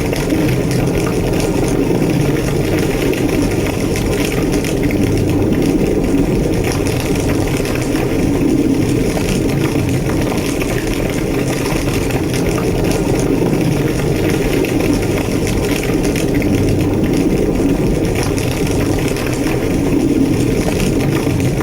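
Large structure fire burning at full intensity: a steady, deep roar with constant fine crackling.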